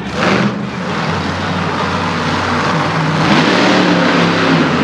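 Monster truck engine running, revving up about three seconds in.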